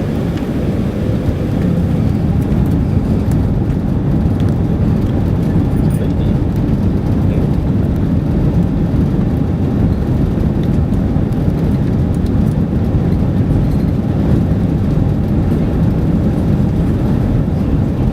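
Airbus A380's four jet engines at takeoff power, a steady deep rumble that grows slightly louder in the first couple of seconds and then holds.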